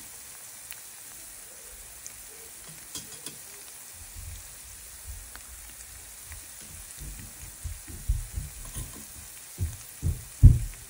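Onion paste and ground spices sizzling in oil in a non-stick pan, a faint steady hiss. From about four seconds in, a wooden spoon stirs and scrapes through it, with dull knocks growing louder near the end.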